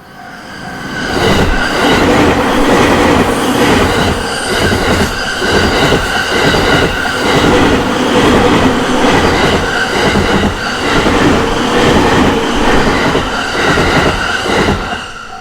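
An electric train on the JR Takasaki Line passing close by at a level crossing. It rises about a second in and runs loud, with repeated wheel clacks over the rail joints and a steady whine on top. The level-crossing bell can be heard at the very start, then is drowned out, and the train noise drops off sharply near the end.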